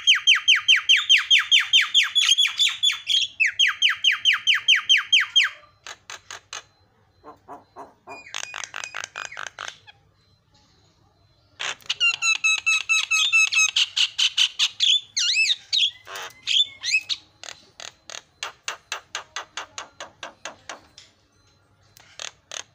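Javan myna singing: fast trains of sharp repeated notes, about six a second, in bouts with short gaps, and a more varied warbling phrase with gliding notes around the middle.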